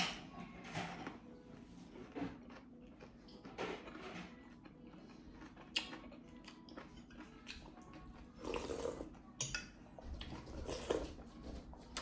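Quiet eating sounds: cutlery clicking against plates and bowls now and then, with short bursts of chewing and slurping of juicy beef momos about two thirds of the way in and again near the end.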